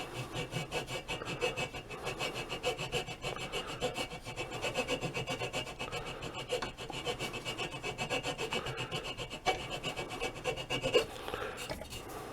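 Hand file rasping across walnut in quick, repeated short strokes, cutting a small ledge along the edge of a piece held in a vise. The filing stops about a second before the end.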